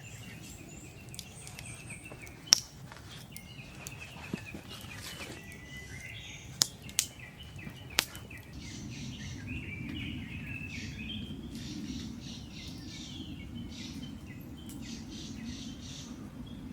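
Birds chirping repeatedly in short calls. There are a few sharp clicks or snaps in the first half, the loudest about two and a half seconds in, and a low steady rushing noise that comes up about halfway through.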